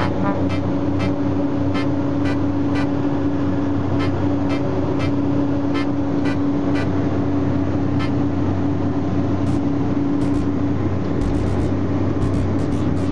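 Small propeller aircraft's engines running at a steady cruise, heard as a loud, even drone, with faint ticks about twice a second.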